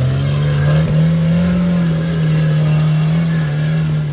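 Off-road rock crawler's engine held at high revs under load as it climbs a rock section. Its pitch rises over the first second, then holds with small dips.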